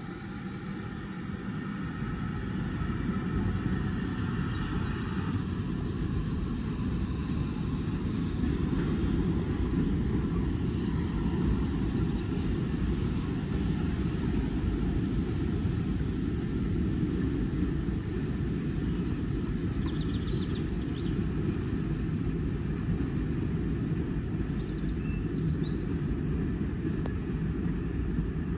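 Steady low rumble of a railway train, building over the first few seconds and then holding, with a faint high ringing in the first several seconds.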